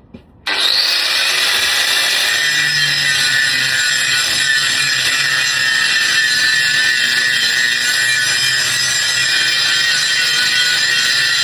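Bosch 5-inch angle grinder running and grinding steadily, starting suddenly about half a second in and continuing without a break.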